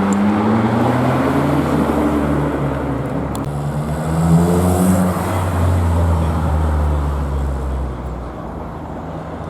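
A vehicle engine accelerating hard, its pitch climbing twice as it pulls through the revs, then holding before dying away near the end.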